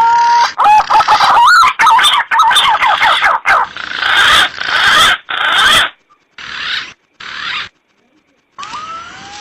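Green pigeon (punai) calls played as a hunting lure: whistled notes that glide up in pitch, then a fast run of wavering, warbling whistles. The recording is cut into abrupt segments, with a silent gap about eight seconds in before a rising whistle resumes.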